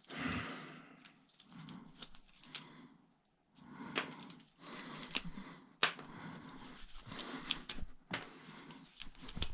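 Small pieces of brass scrap being handled at a bench: scattered sharp metallic clicks and clinks with short bouts of rustling and scraping between them.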